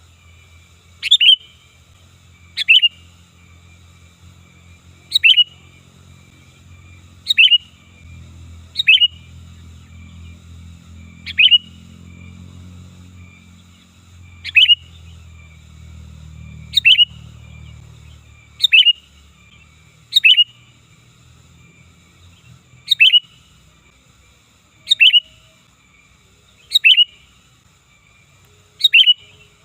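Sooty-headed bulbul (kutilang) giving a loud, sharp call: a quick falling chirp, repeated about fourteen times, one every two seconds or so.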